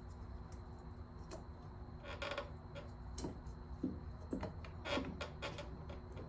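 Scattered light clicks and taps of small leaf-blower parts being handled and worked into place by hand, over a faint steady hum.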